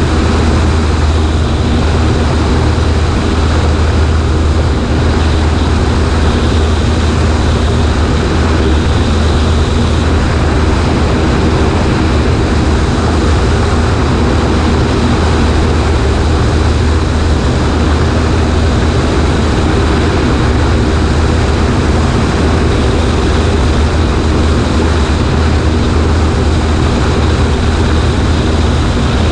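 Cessna 140A's engine and propeller running at a steady, unchanging speed, with a strong low hum and a rushing noise over it.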